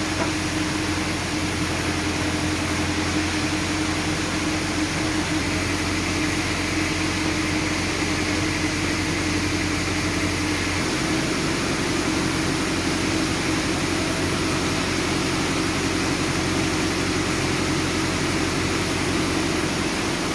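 Sawmill machinery running steadily with a low engine-like hum, its low tones shifting slightly about halfway through.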